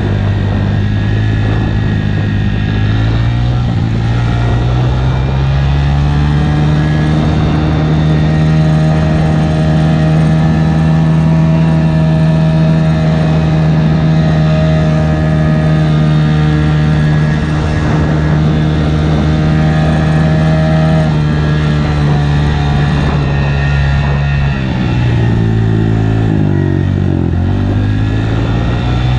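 Honda 125 motorcycle engine running, revving up over the first few seconds and then holding a steady, higher pitch. It eases off about 24 seconds in, wavers, and picks up again near the end.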